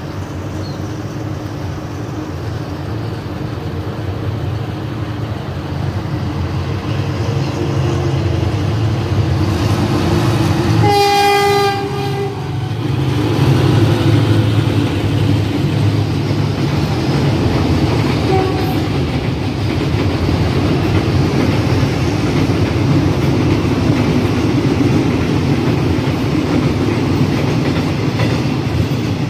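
Diesel-hauled container freight train passing: the locomotive's engine drone builds, it sounds one short horn blast about eleven seconds in, then the loaded container wagons run past steadily.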